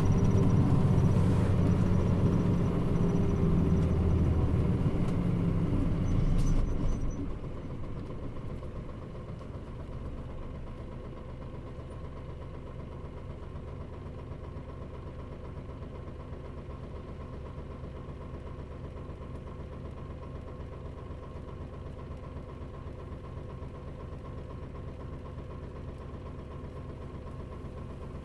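Mitsubishi Fuso Aerostar (KL-MP35JM) city bus engine, heard from inside the bus, falling in pitch as the bus slows. About seven seconds in it drops to a steady idle.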